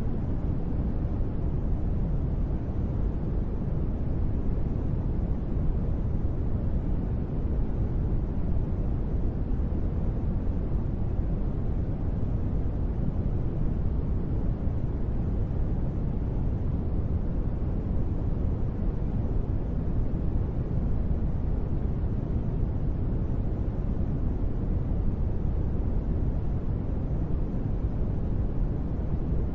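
Steady rain ambience played as a sleep noise: an even, unchanging wash that is deepest in the low end, with no separate drops, thunder or other events standing out.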